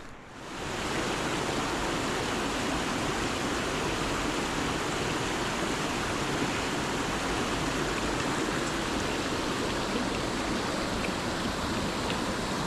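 Rushing water of a mountain headwater stream: a steady, even rush that comes up within the first second and holds.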